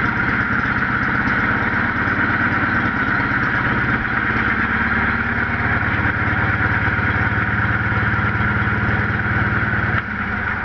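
Sears Suburban garden tractor's engine running steadily on a cold start, a fast even beat. Near the end the sound drops off sharply.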